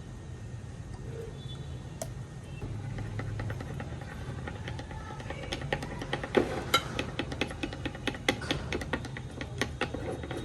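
Irregular clinks and taps of dishes and eating utensils over a low hum, starting sparse and growing busier about halfway through.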